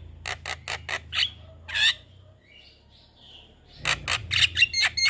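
Javan myna calling in short, sharp, harsh notes. A pause follows, then a quick run of chirping notes near the end.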